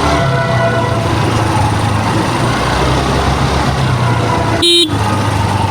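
Scooter engine running steadily amid traffic noise, with a short horn toot about five seconds in.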